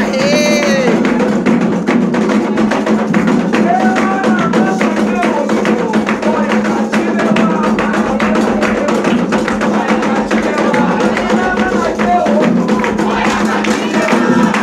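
Candomblé ritual music: atabaque hand drums beating fast and dense, with voices singing over them.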